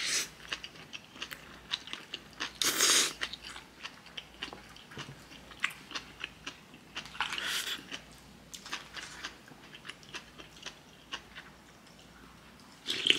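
A person chewing and crunching food close to the microphone, with many small clicks throughout and two louder noisy bursts, about three and seven and a half seconds in.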